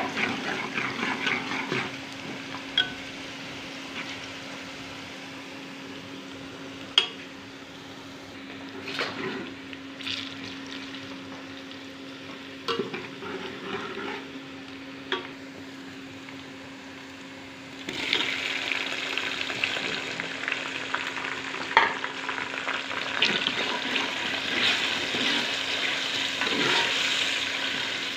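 Onions sizzling in oil in an aluminium pot, stirred with a metal ladle that clinks sharply against the pot now and then, over a steady low hum. The sizzling grows louder about two-thirds of the way through, as chopped tomatoes go into the pot.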